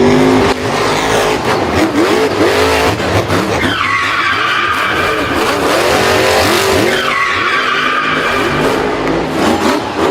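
Car engine revving up and down with tyres squealing and skidding; a long high squeal holds from about four to seven seconds in.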